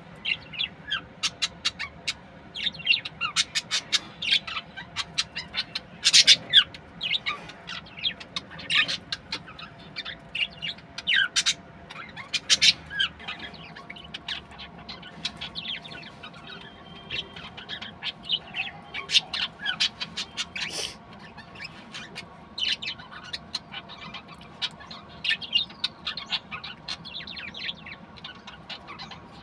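Budgerigars chirping and chattering in rapid, short, high-pitched calls, a few of them louder squawks.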